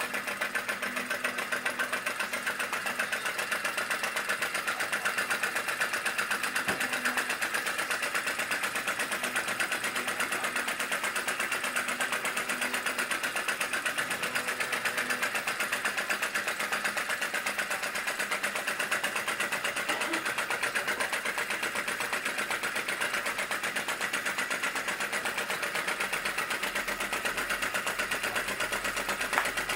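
Model vacuum (flame-licker) engine running at full speed, about 500 rpm, with a fast, steady popping and clatter.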